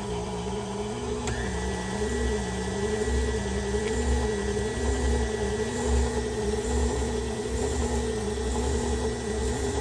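KitchenAid stand mixer motor running steadily, driving the Spiralizer Plus attachment through a red potato. Its hum wavers up and down in pitch a little more than once a second, and a faint high whine joins about a second in.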